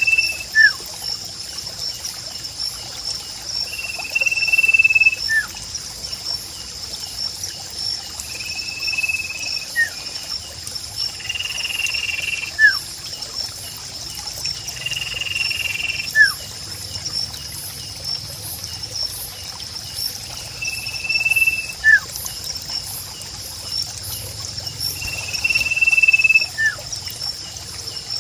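Sirpu bird calling over and over, about every four seconds: a level high whistle followed by a short falling note. Under it runs a steady high insect chorus and trickling water.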